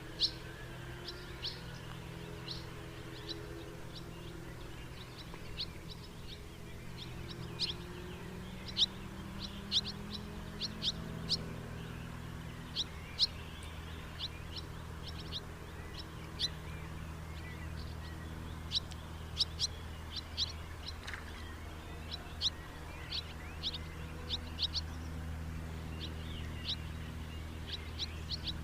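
House martins calling: many short, dry chirps in quick, irregular runs, over a low steady background hum.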